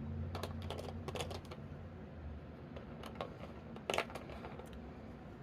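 Light clicks and taps of small plastic action-figure parts, spare hands, being handled and set down, a few scattered clicks over a faint low hum.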